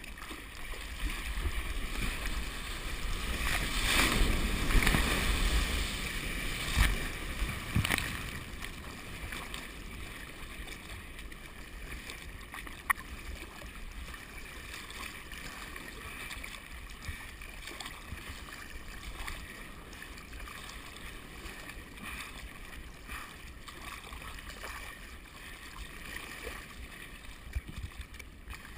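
Ocean surf washing and breaking, with wind rumbling on the microphone; the wash is loudest a few seconds in, then settles to a steadier, quieter hiss, with one sharp click in the middle.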